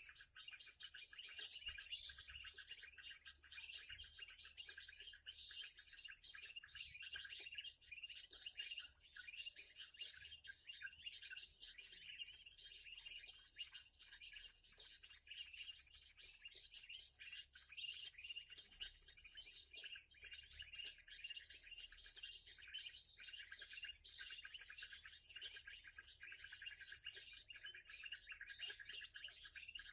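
Small songbirds chirping and twittering without pause, a dense run of rapid, high-pitched calls, faint.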